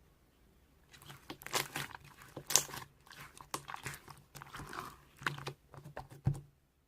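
Close, irregular crunching and crackling: many sharp cracks and clicks in quick succession, starting about a second in and stopping abruptly near the end.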